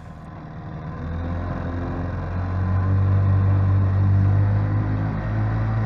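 Vikhr two-stroke outboard motor with a water-jet attachment, running with a steady low hum that grows louder over the first three seconds, then holds.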